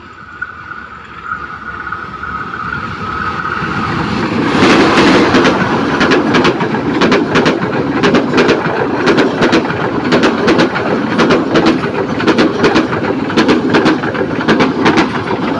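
Passenger train passing at speed. Its rumble builds over the first four seconds as it approaches, and it turns loud about five seconds in. The wheels then click over the rail joints in a steady repeating clickety-clack as the coaches go by.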